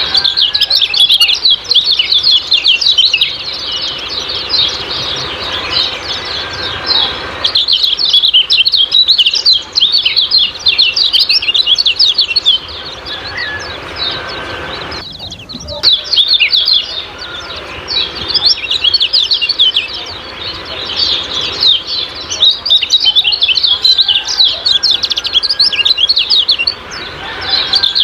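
Kecial kuning songbird giving its rapid 'ciak-ciak' chirping call, long runs of quick high chirps with a short pause about halfway through.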